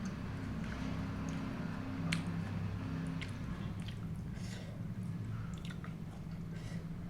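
Close-miked chewing of food, with a few sharp mouth clicks scattered through it.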